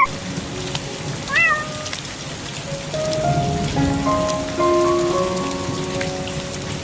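Steady rain with a single short cat meow about a second and a half in, over soft background music with held notes.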